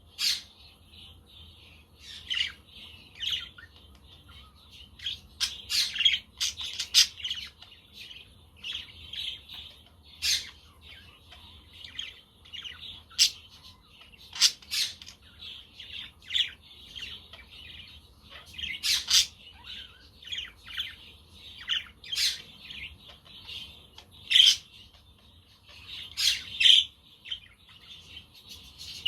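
Budgerigars chattering and chirping continuously, with sharp, louder calls breaking through every second or two.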